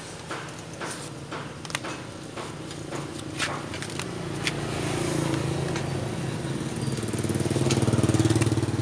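Scattered metallic clicks and clinks of steel transformer lamination sheets being lifted out of a welder's core. Over them a motor engine hum builds from about halfway through and is loudest near the end.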